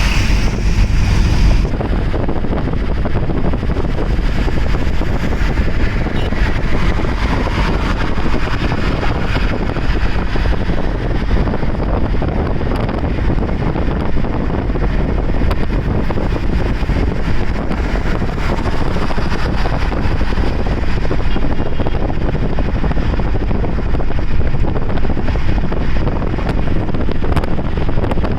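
Steady road and wind noise of a car on the move, strongest in the low end. The high hiss drops away a couple of seconds in.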